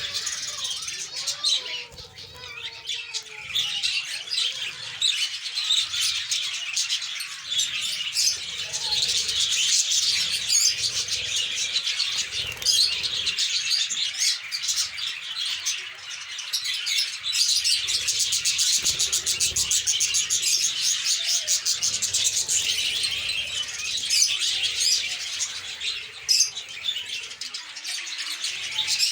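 A colony of lovebirds chirping and chattering continuously, many high-pitched calls overlapping.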